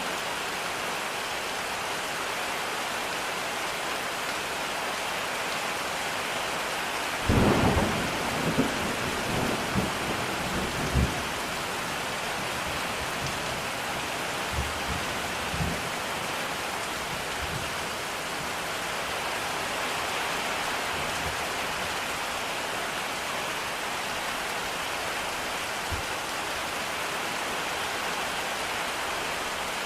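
Steady rain, with a clap of thunder about seven seconds in that rumbles on for a few seconds, and fainter rumbles of thunder around the middle.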